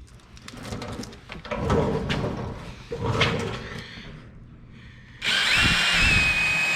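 Clicks and rustling of hands fitting a finer sanding disc, then about five seconds in a drill spins up and runs steadily with a high whine, driving the sanding disc over the plastic headlight lens.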